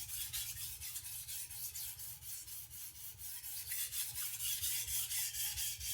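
A chef knife's steel edge scraping back and forth across a whetstone under light pressure (about 200 grams), in a quick, even rhythm of strokes, grinding a new edge onto a badly dulled blade.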